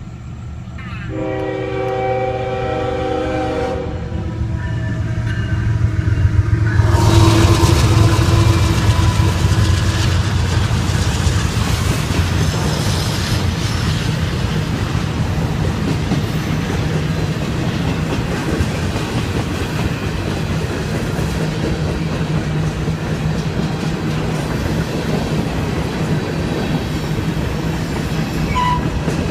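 Diesel locomotive air horn sounding a chord of several notes for about three seconds, then the lead GE ES44AC locomotive passing loudly at about seven seconds in. A steady rumble and clickety-clack of freight cars rolling over the rails follows.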